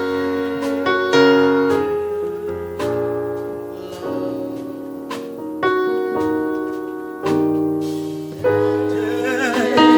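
Piano playing slow, sustained chords as the introduction to a gospel praise song, with a voice beginning to sing near the end.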